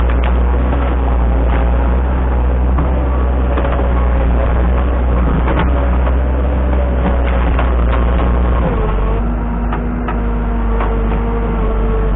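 An engine running steadily under load, its note dropping to a lower speed about nine seconds in, with scattered clicks and knocks over it.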